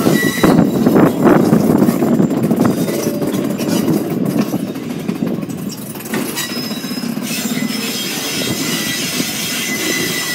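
Rail car rolling along the track: a steady rumble with irregular clatter, and a thin, faint wheel squeal in the second half.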